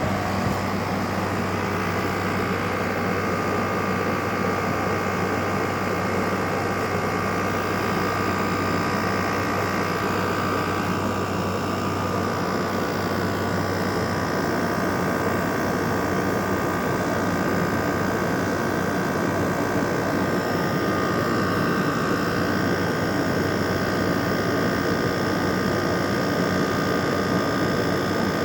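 LG air conditioner running steadily, its fan and compressor making an even hum with a faint steady whine above it.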